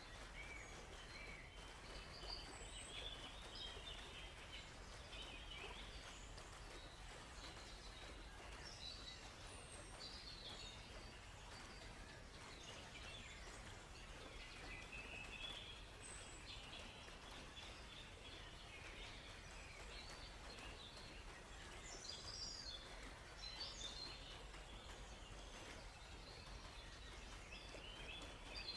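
Faint birdsong: several small birds chirping and twittering in short, scattered high phrases over a steady soft rushing of a flowing river.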